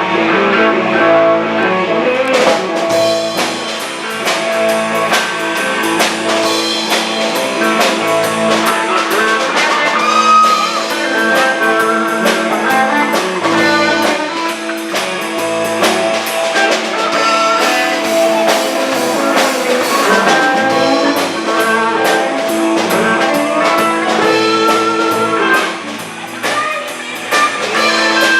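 Live band playing blues-rock music: electric guitar lines over a drum kit, with the drums coming in about two seconds in.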